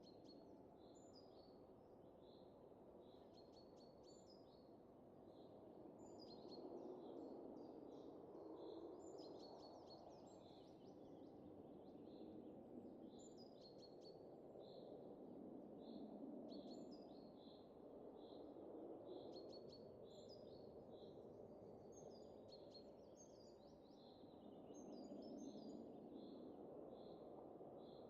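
Faint, soft wind that rises and falls in gusts every few seconds, with small birds chirping over it: one high chirp repeats about once a second, and short quick bursts of notes come in between.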